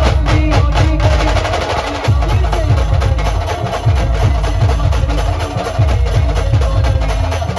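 Brass band music with fast, dense drumming and steady melody tones.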